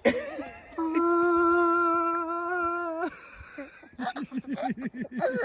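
A single held note with bright overtones, about two seconds long at one steady pitch, like a sung 'ahh'. Near the end comes a run of quick laughter.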